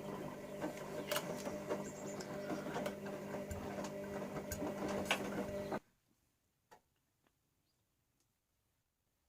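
Bauknecht Super Eco 6413 washing machine's motor turning the drum in a wash rotation: a steady motor whine with scattered clicks and knocks, cutting off suddenly about six seconds in. Afterwards only a few faint ticks are heard.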